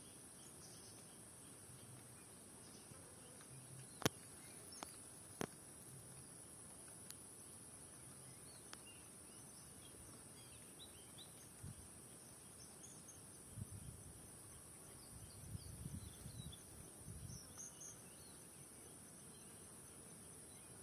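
Forest ambience: a steady high-pitched insect drone, with faint, scattered bird chirps. A few sharp clicks come about four to five seconds in, and low rumbling bumps come and go in the second half.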